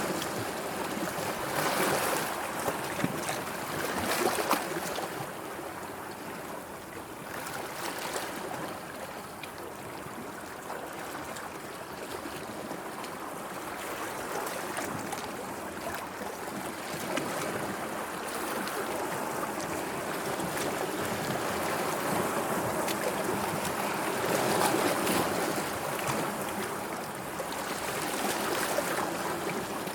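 Sea waves washing in steadily, swelling and easing in loudness, with a few sharper splashes and louder surges about two, four and twenty-five seconds in.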